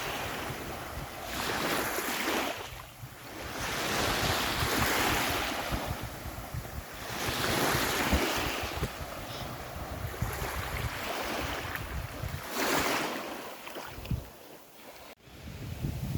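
Sea waves breaking on a beach, each wash swelling and falling back every few seconds, with wind buffeting the microphone.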